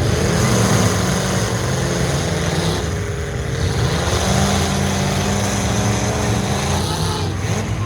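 Several full-size trucks' engines running and revving together, their pitches rising and falling against one another.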